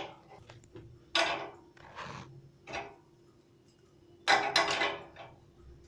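Metal clinks and scrapes from handling a water-heater pipe fitting and tools, in several separate short bursts, the loudest cluster about four seconds in, over a faint steady hum.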